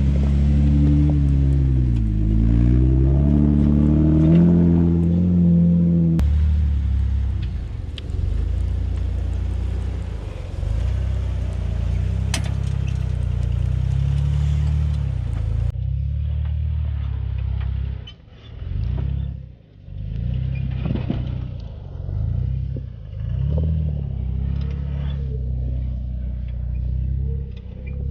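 Jeep engine running at low speed while crawling over rocks, its pitch rising and falling with the throttle. The sound changes abruptly twice.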